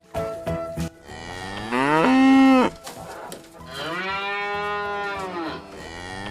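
A cow mooing twice: a short, loud moo that rises and holds, then a longer moo that rises and falls in pitch.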